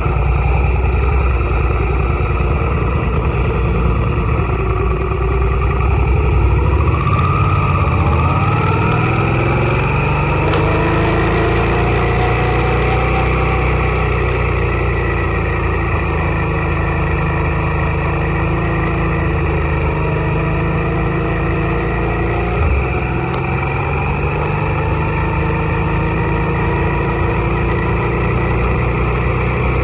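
Suzuki SV650's V-twin engine running, heard from on board the motorcycle. The engine note holds steady at first, then swings up and down in pitch from about a quarter of the way in as the revs change.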